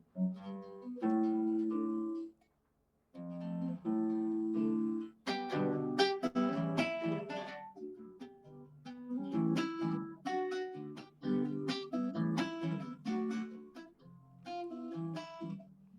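Solo guitar playing the introduction to a song in malambo rhythm: a few strummed chords, a short break about two and a half seconds in, then quicker rhythmic strumming with sharp strokes.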